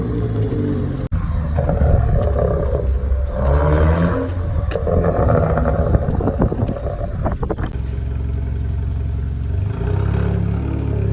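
2017 Hyundai Elantra Sport's turbocharged 1.6-litre four-cylinder through a custom 4-inch quad turboback exhaust. It is revved up and down several times, with a burst of pops and crackles as the revs fall, then held at a steady low rev for the last few seconds.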